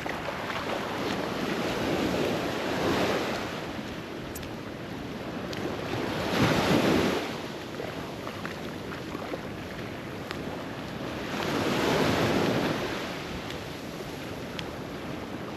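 Ocean surf breaking and washing up a beach in three rising-and-falling surges, the loudest about halfway through, with wind on the microphone.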